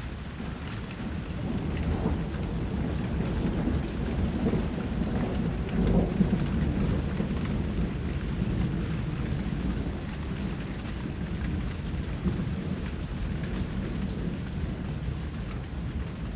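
Steady rain falling, with a low rumble of thunder that builds a couple of seconds in, is loudest about six seconds in, then fades back under the rain.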